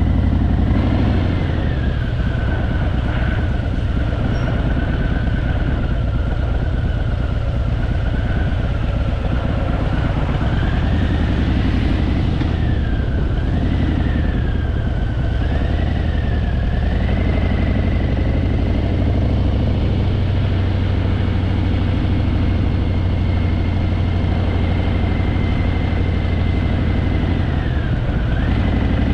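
Harley-Davidson Fat Boy's V-twin engine running under way, a steady low rumble with a thin whine above it. The whine's pitch rises and falls several times in the middle, then holds steady until near the end.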